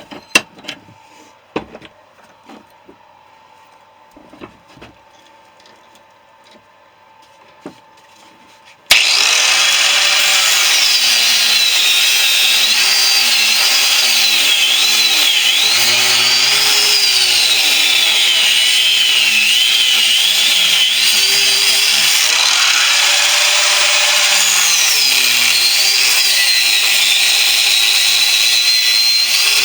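A few light knocks and clicks, then about nine seconds in an angle grinder starts abruptly and runs continuously, its pitch wavering up and down as it cuts into a refrigerator compressor's steel shell.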